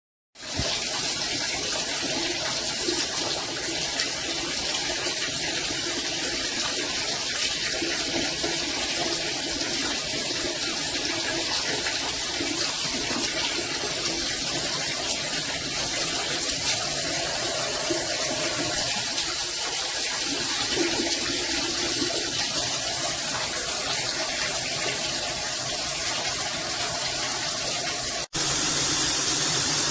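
Water spraying steadily from a rainfall shower head, a dense, even hiss of falling water. It breaks off for an instant near the end and a slightly different steady water sound follows.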